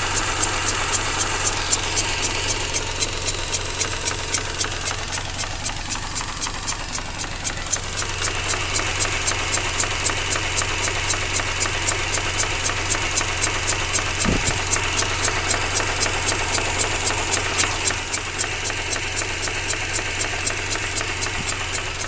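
Mazda RX-8's Renesis twin-rotor engine idling roughly, with a pulsating air-suction sound and ticking from the secondary shutter valve, about four pulses a second. The pulses, at a third of idle speed, suggest a blown rotor side seal, though the owner is still looking for other causes such as a leak behind the upper intake manifold.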